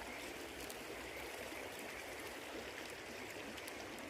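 River water flowing in a steady rush, with a few faint crackles from the campfire.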